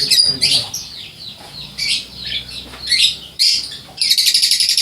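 Many caged lovebirds calling at once: shrill chirps and squawks, then a fast, continuous chattering trill starting about four seconds in.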